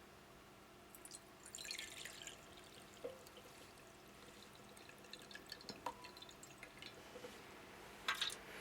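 Faint dripping and small splashes of water with a few light clicks, from water in the humidifier's tank during cleaning with a bleach solution.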